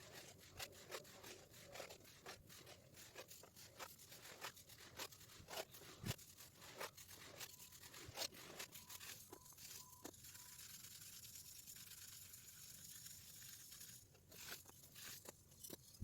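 Hardened baking soda being crushed and crumbled: a dense, irregular run of faint crunches and crackles, with a steadier hiss for a few seconds past the middle.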